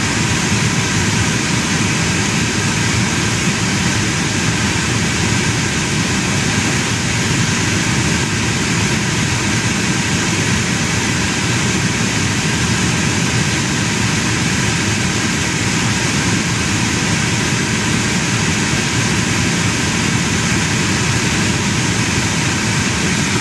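A car's climate-control blower running on high, a steady, even rushing noise, over the engine's idle.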